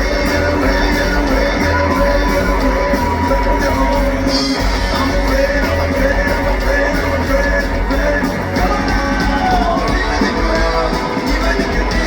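A rock band playing live: a singer over guitar, with a steady pulsing bass beat.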